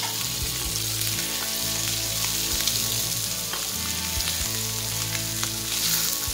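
Masala-coated boiled eggs sizzling steadily as they shallow-fry in hot oil in a pan.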